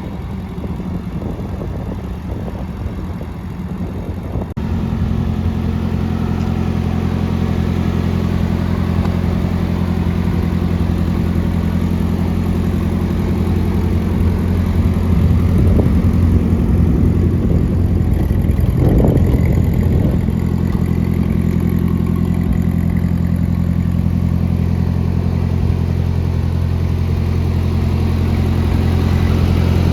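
Ford 8N tractor's four-cylinder flathead engine running at a steady idle. Its note firms up and gets slightly louder about four and a half seconds in.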